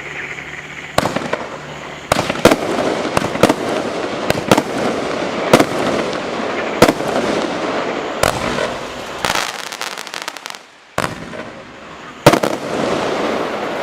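A 25-shot, 200-gram consumer fireworks cake firing: a dozen or so loud reports in quick succession over a steady crackle, with a short lull about two-thirds of the way through.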